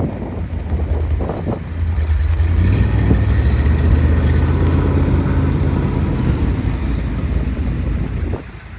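Mercury 500 truck engine running, its note rising about two seconds in and then holding steady, cutting off abruptly near the end.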